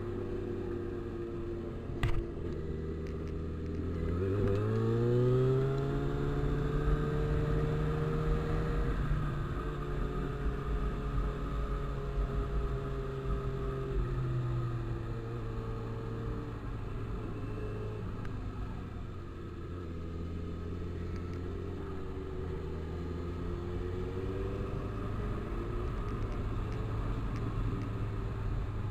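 Motorcycle engine running under way: the revs climb about four seconds in, hold, ease off around fourteen seconds, and then rise and fall gently. A sharp click sounds about two seconds in.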